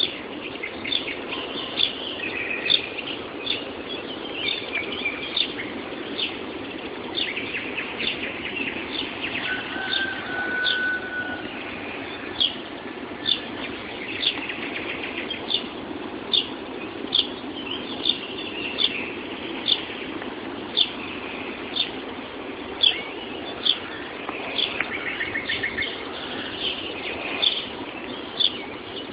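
Morning chorus of many songbirds: sharp, falling chirps repeat about once a second over denser twittering, with a short steady whistle about ten seconds in. A steady low background noise lies beneath, and the sound is dull at the top, as recorded on a mobile phone.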